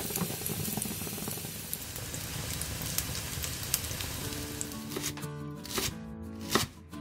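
Spinach pancakes frying in oil in a pan: a steady sizzle with scattered crackles. About five seconds in it gives way to a chef's knife chopping spinach on a wooden cutting board, three sharp chops.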